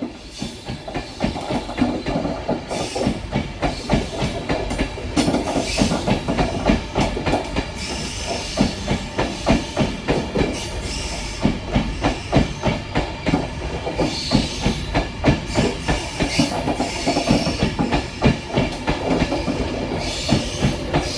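LNER InterCity 225 passenger train passing through a station, a Mark 4 driving van trailer leading and a class 91 electric locomotive pushing at the rear: a steady, rapid clickety-clack of wheels over rail joints.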